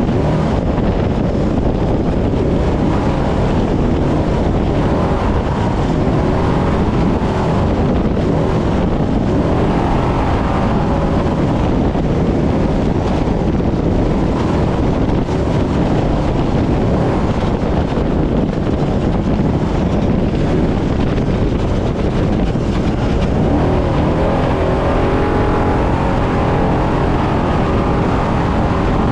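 Desert trophy truck running hard over rough terrain: a loud, constant wash of engine and road noise with wind on the microphone. The engine's pitch rises and falls faintly about ten seconds in and again near the end.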